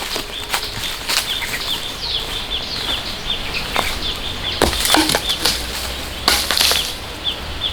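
Knocks, clicks and two louder scraping rasps from hand work on the shelter build. A high chirp repeats about twice a second throughout.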